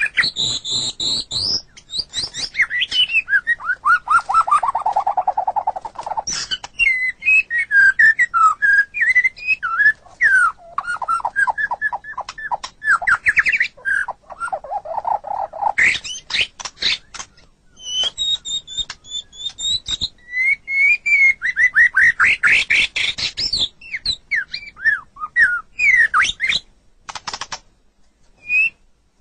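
White-rumped shama (murai batu) singing a long, varied song: clear whistled phrases, rapid trills and chattering notes following each other almost without a break, with a brief lull near the end.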